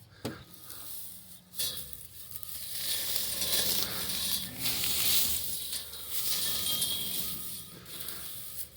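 Dry grass hay rustling and crackling as clumps are pulled apart and spread on the ground: a couple of sharp snaps in the first two seconds, then steady crackling from about three seconds in.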